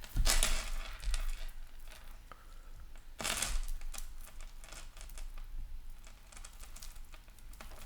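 A tangled jewelry chain being worked at by hand to unknot it: small metallic clinks and rustles, with two louder spells of handling, one at the start and one about three seconds in.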